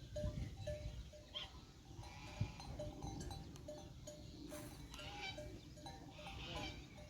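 Livestock bleating in the middle and later part, over a low rumble. Through the first two seconds a short note repeats about three times a second.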